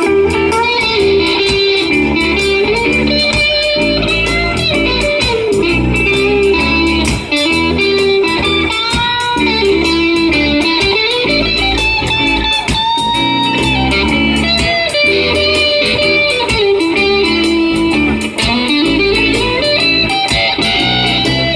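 Live rock band playing an instrumental passage, with an electric guitar carrying the melody in bending, sliding lines over bass and a steady drum beat.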